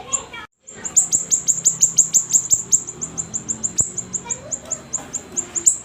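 A siri-siri songbird singing a rapid, vigorous run of short, high chirps that fall sharply in pitch, about eight a second. The chirps stop for a moment about half a second in.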